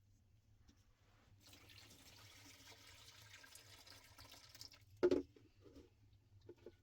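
Water pouring or running for about three seconds, then a single loud knock, with a few light knocks after it.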